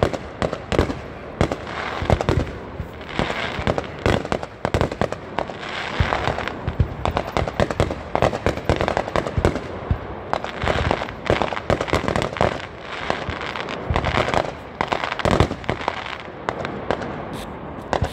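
A fireworks display going off: a dense, unbroken barrage of bangs and crackling, many reports a second.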